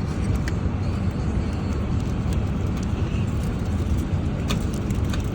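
Steady low rumble of engine and airflow noise inside an Airbus A380 cabin, with a few faint clicks.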